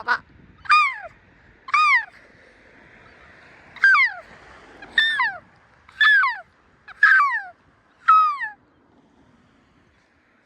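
Gulls calling: about seven loud, drawn-out calls, each sliding down in pitch, roughly one a second. They stop about two seconds before the end.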